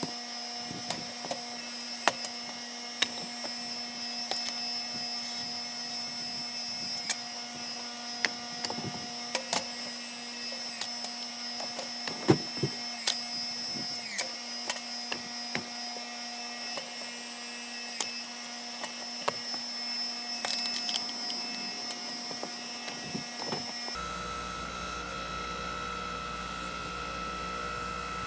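Engine-driven hydraulic log splitter running with a steady hum and whine, with scattered sharp cracks and ticks from the wood under it. The machine's tone shifts abruptly near the end.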